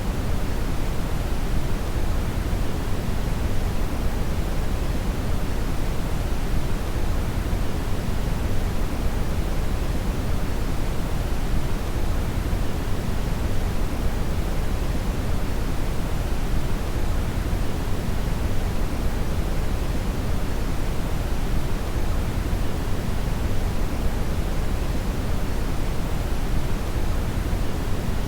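Steady brown (red) noise, a synthetic noise signal with its energy heaviest in the lows, giving a deep, even rumbling hiss that does not change.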